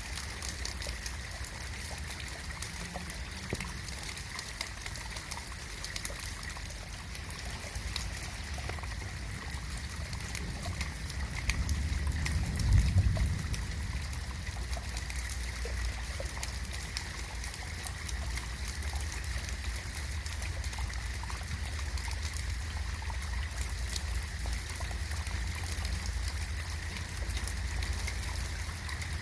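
Steady rain falling, with many small drops ticking and trickling. About twelve seconds in, a low rumble swells briefly and fades.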